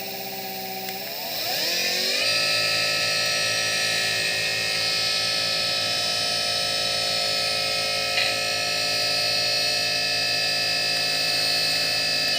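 An e-rickshaw's brushless hub motor spins under its controller, freshly fitted with a new bearing and shaft to cure a noise. It gives a steady electric whine that rises in pitch as it speeds up about a second in, then holds steady at speed.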